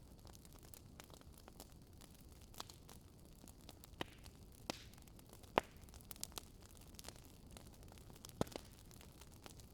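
Campfire crackling: scattered sharp pops and snaps at irregular intervals, the loudest a little past halfway, over a faint low steady rumble.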